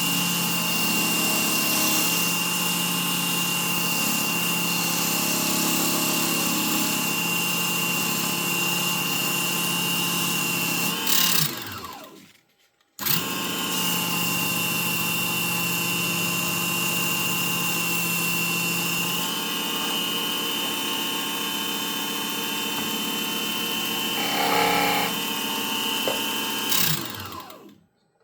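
Small benchtop wood lathe's motor running steadily with wood being turned on it. It is switched off and winds down about twelve seconds in, starts again a second later, and winds down once more near the end.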